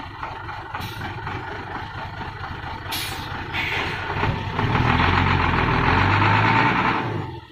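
Hino six-cylinder diesel engine of a homemade truck running, with two short hisses in the first three seconds. It grows louder and heavier about four and a half seconds in, as if under load, then stops suddenly near the end.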